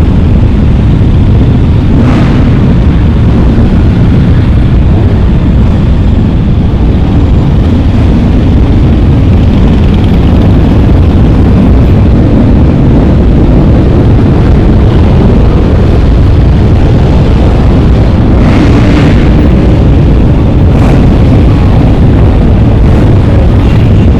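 Loud, steady rumble of wind buffeting the microphone on a moving motorcycle, with the bike's running engine mixed in. A few brief louder rushes come through, one about two seconds in and a couple more about three-quarters of the way through.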